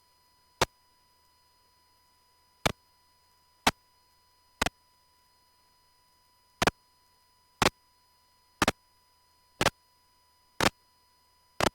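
Sharp electrical ticks in the aircraft's intercom audio, about one a second and some of them doubled, over an otherwise near-silent line with a faint steady hum: interference from the anti-collision strobe lights that were just switched back on.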